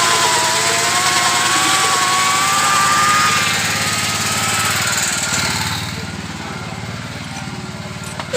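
Tractor engine running steadily with an even low chug. A high wavering whine rides over it for the first few seconds, and the engine sound drops in level about five seconds in.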